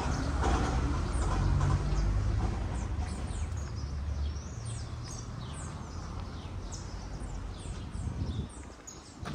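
Birds chirping repeatedly in short, quickly falling high notes. A low rumble that is loudest at the start fades out over the first half.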